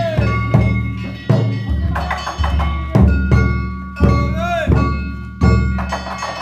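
Danjiri festival music: a large drum struck roughly once a second, with small metal gongs ringing over it and voices calling out, one rising-and-falling shout in the middle.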